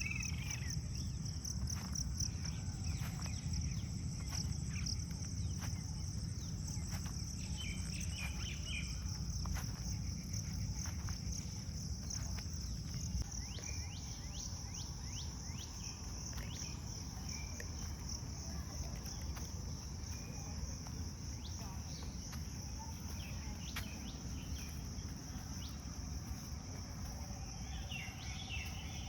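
Insects chirring in a steady high drone, with a few short bird calls now and then.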